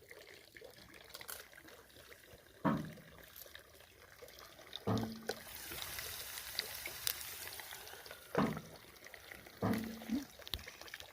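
Water pouring and trickling, with several short knocks spread through it.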